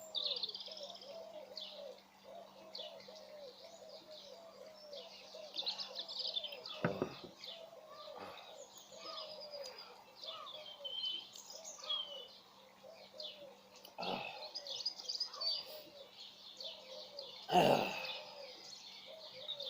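Garden birds chirping and singing, with high twittering notes over a run of lower repeated calls. Three short knocks sound during it, and a faint steady hum runs underneath.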